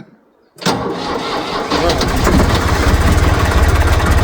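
Ditch Witch 5010's three-cylinder air-cooled Deutz diesel cold-starting: it turns over suddenly about half a second in, catches and settles into a steady low-pitched run.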